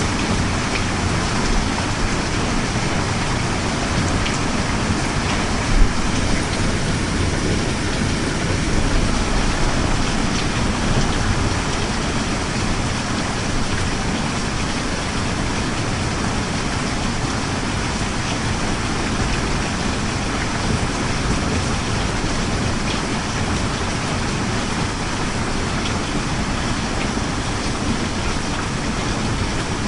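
Steady rain with an even hiss, and a brief low thump about six seconds in.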